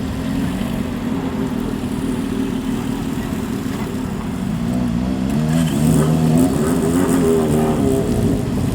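Motorcycle engines running. From about five seconds in, one bike's exhaust note rises in pitch and gets louder.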